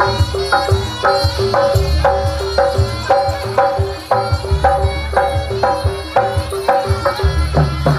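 Javanese reog-style gamelan music played by drums under a quick, evenly repeating pattern of struck pitched notes.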